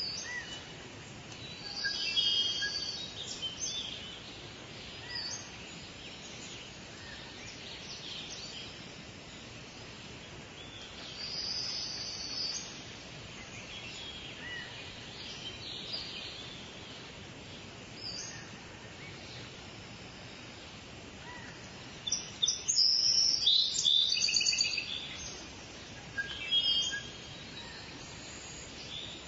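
Small birds chirping and singing in short high phrases over a steady hiss, with a busier, louder run of song about three quarters of the way through.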